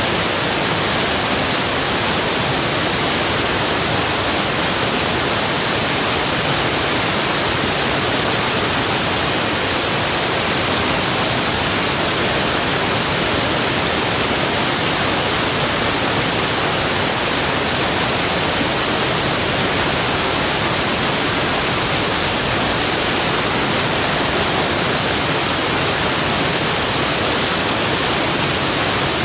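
Steady, unbroken rush of flowing water, an even hiss that reaches high into the treble.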